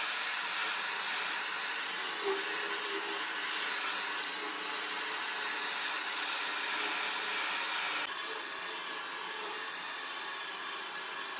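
Steady whooshing machine noise, like a motor driving air. It steps down in level about eight seconds in and keeps running.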